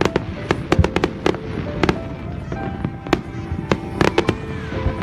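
Fireworks and firecrackers going off: a rapid, irregular string of sharp bangs, some close together.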